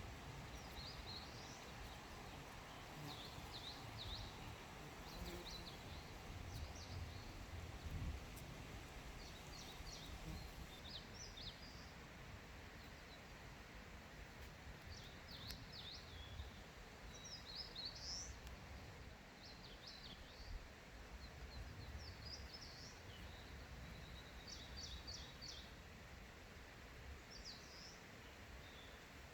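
Small songbirds chirping and trilling in a forest, a short high phrase every second or two, faint, over a low steady rumble.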